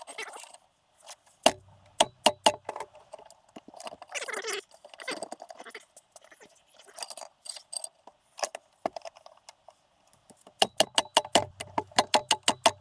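Metal tools and small engine parts clinking and clicking, as in hands-on engine teardown work. There are scattered knocks and clinks, and near the end a fast run of clicks at about six a second.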